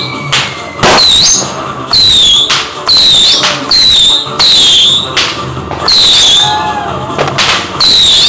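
A rapid string of very loud, shrill firework whistles, about one a second. Each is a short piercing tone that slides down slightly in pitch and then holds, peaking hard enough to overload the recording. Crackling from other fireworks goes on between them.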